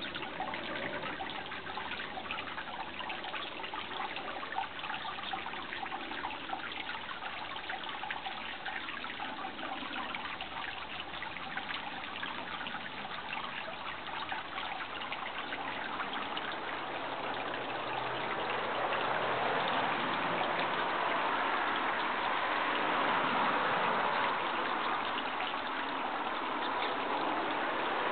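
Running water trickling and splashing, a steady hiss that grows louder about two-thirds of the way through.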